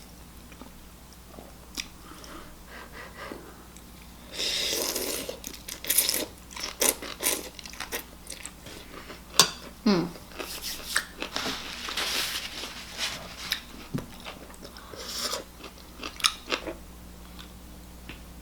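Close-up eating sounds: biting into and crunching a crisp puffed corn snack, then chewing, in irregular bursts of crackle with small clicks between.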